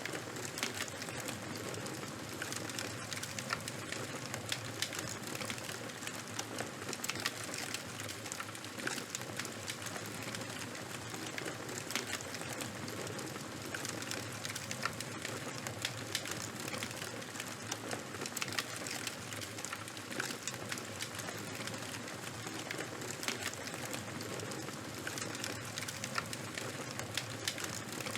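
Charcoal and bonfire burning, crackling with many small sharp pops over a steady hiss.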